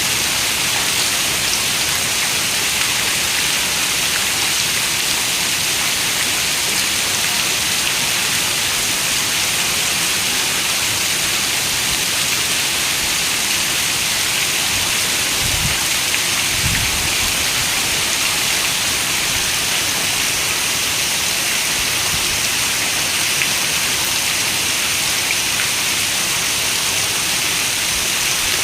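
Steady, even rain, with a brief low rumble about halfway through.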